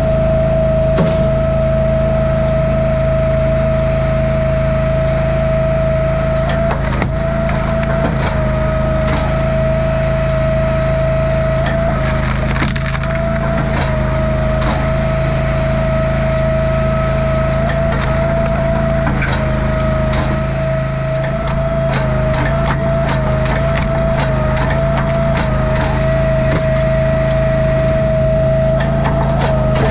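Engine-driven log splitter running steadily while wood is split, with repeated cracking and splintering as rounds break apart.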